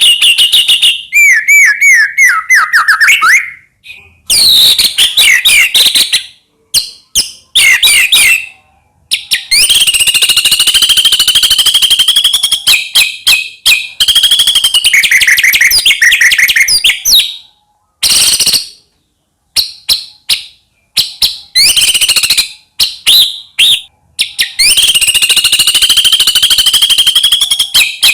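White-rumped shama singing loudly: long phrases of fast, rapidly repeated notes and sliding whistles, broken by several short pauses.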